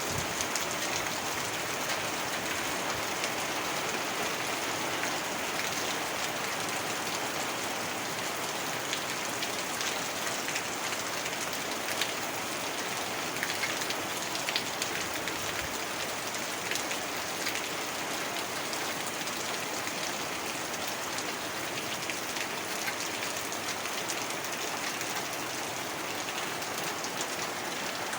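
Heavy rain falling steadily: a dense, even hiss with many individual drops ticking close by.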